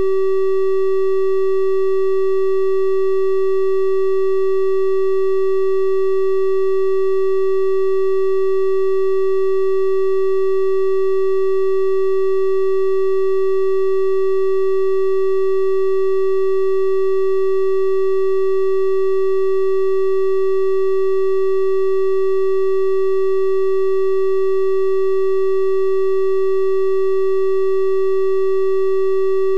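A steady electronic 384 Hz triangle-wave tone, held at one pitch without change, with faint evenly spaced overtones above it.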